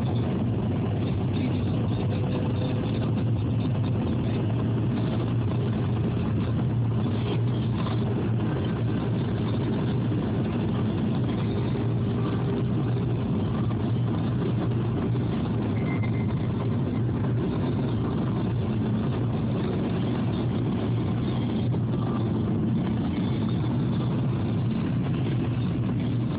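Car driving at a steady pace: a constant low hum of engine and road noise with no change in speed.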